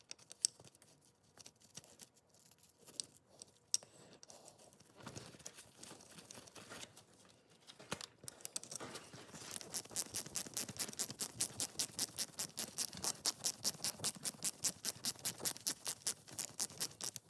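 Hand ratchet being worked to run the motorcycle's oil drain bolt in, with a fresh crush washer, before final torquing. A few scattered handling clicks at first, then from about halfway a steady ratcheting of about four clicks a second.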